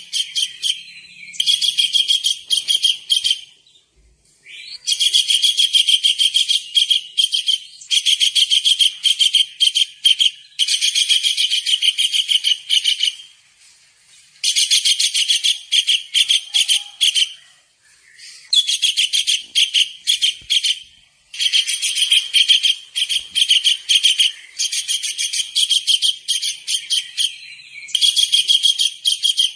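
Kingfisher (tengkek udang) calling in rapid runs of sharp, high repeated notes. The phrases come one after another, each a second or two long, with short pauses between.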